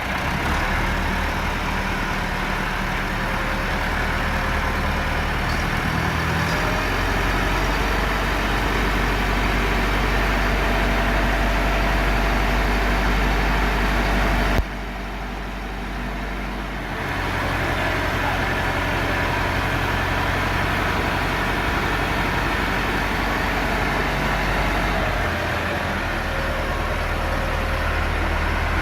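Massey Ferguson MF 375 tractor's four-cylinder diesel engine running steadily, its pitch shifting about six seconds in. Halfway through the sound drops abruptly and builds back up about two seconds later.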